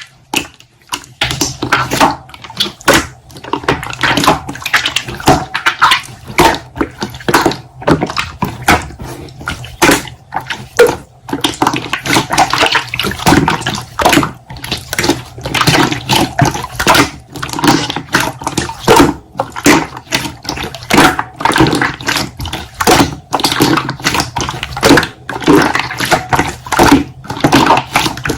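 Slime being squished and kneaded by hand: a continuous, irregular run of wet squelches and small sticky pops and clicks.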